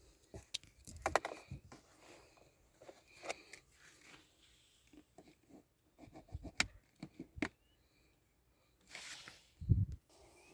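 Irregular clicks, knocks and short scraping noises of objects being handled, with a brief rush of noise and a heavier thump near the end.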